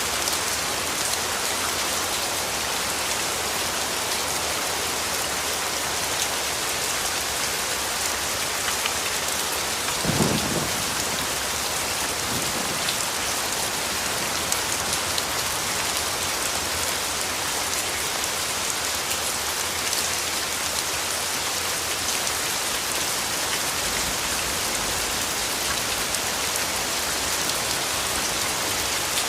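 Steady rain falling and pattering on surfaces, with a short rumble of distant thunder about ten seconds in.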